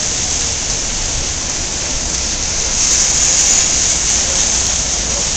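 Steady rain falling, an even hiss with a low rumble beneath.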